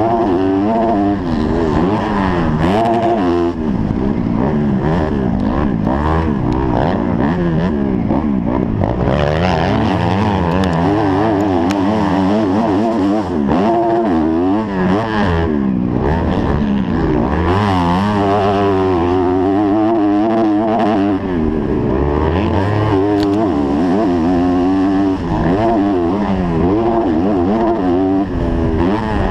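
250-class motocross bike's engine revving hard and easing off over and over as the rider races around the track, picked up by a helmet camera.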